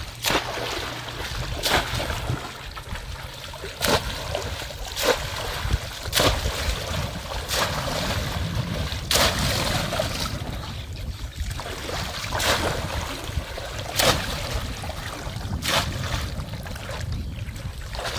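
Shallow water splashing in short, sharp splashes about every one to two seconds, over a steady low rumble.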